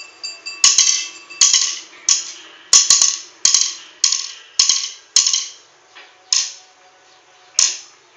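A series of about a dozen sharp clicks or snaps, roughly one every half second, each with a short hissy tail, then two more spaced further apart.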